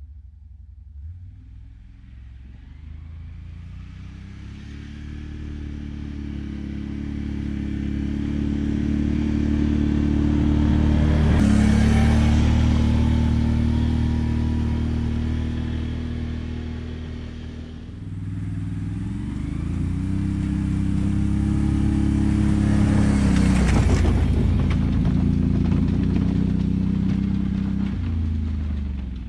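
ATV engine running, growing louder and fading twice, with its pitch rising about two-thirds of the way through.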